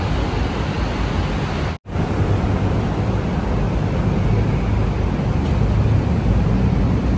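Steady rushing wind and road noise on a microphone riding on a moving motorcycle, heaviest in the low end. The sound cuts out completely for a split second about two seconds in.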